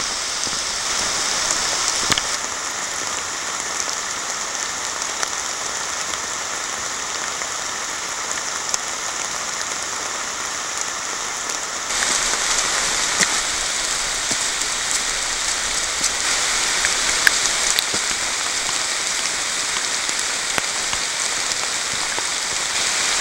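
Steady moderate rain falling through a leafy forest canopy, with scattered sharp ticks of single drops. It grows a little louder about halfway through.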